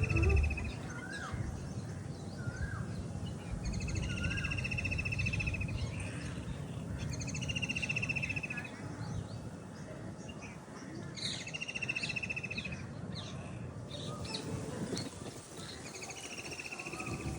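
Several birds calling: one repeats a short, rapid trill about every four seconds, with shorter chirps between, over a steady low rumble.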